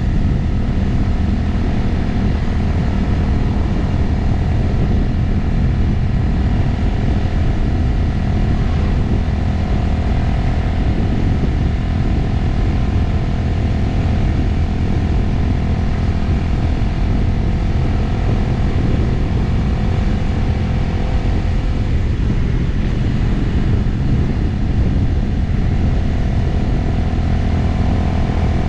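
Motorcycle engine running at a steady cruise on the road, with wind rushing over the microphone. The engine note shifts briefly about three-quarters of the way through, then settles again.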